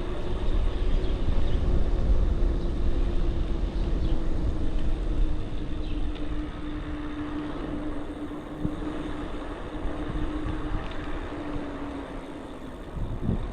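Riding noise on a pedal-assist e-bike: wind rumble on the microphone and road noise, with a steady hum that fades out near the end.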